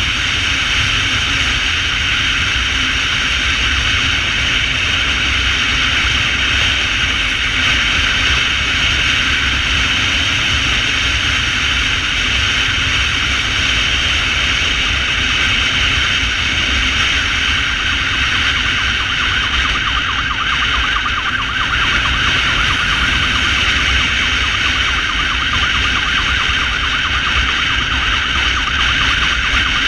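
Emergency motorcycle riding with its siren sounding, over a steady low rumble of wind and road noise. In the second half the siren warbles quickly.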